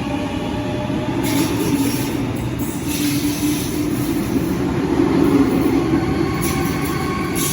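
Electric passenger train running through the station: a steady rumble and hum of wheels and motors, with a high hiss and squeal of wheels on rail coming in about a second in.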